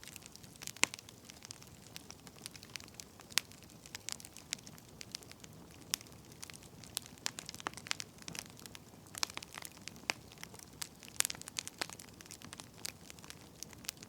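Wood fire crackling: irregular sharp pops and snaps, several a second and some louder than others, over a soft steady hiss.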